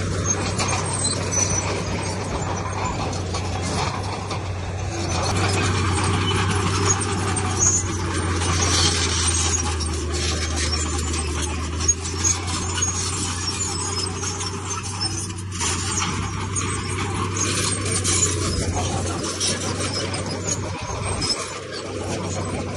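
Heavy diesel earthmoving machinery running steadily, a low engine hum under high metallic squeaking and scraping.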